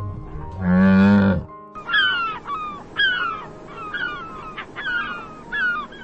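A low, drawn-out animal call in the first second and a half, then a bird calling over and over in short, falling notes, over background music.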